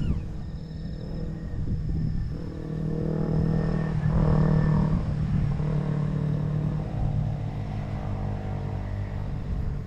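A vehicle engine running steadily with low rumble, its pitch shifting slightly a few times.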